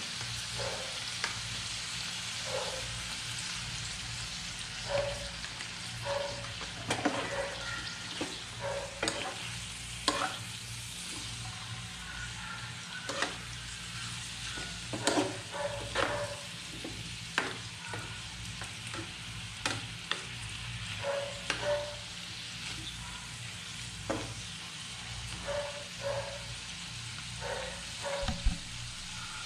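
Chicken pieces and carrots sizzling in a frying pan while being stir-fried, with frequent short clacks and scrapes of the stirring utensil against the pan.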